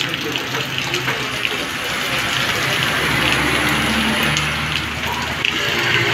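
Heavy rain pouring onto a flooded asphalt road, a dense steady hiss of rain and splashing water. A motor scooter passes on the wet road, its engine and tyre spray swelling about halfway through.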